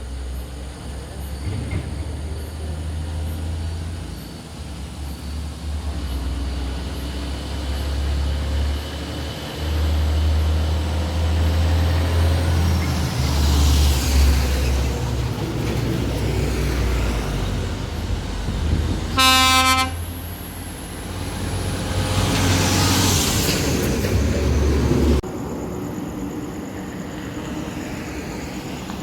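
Heavy truck engines rumbling on the road, with two vehicles passing by and one short horn blast about nineteen seconds in.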